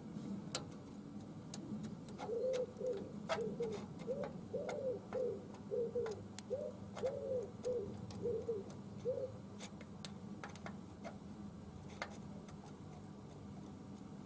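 A bird cooing in a run of short, even notes, about two a second, from about two seconds in until about nine seconds in. Light metallic clicks from the screwdriver and spanner on the valve rocker adjuster are heard throughout.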